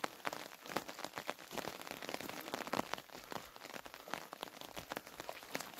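Steady rain falling, with many irregular raindrop ticks and patters.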